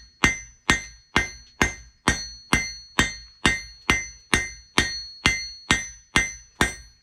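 Blacksmith's hammer striking hot steel on an anvil, rounding the point of a punch. The blows fall evenly, a little over two a second, and each one rings briefly.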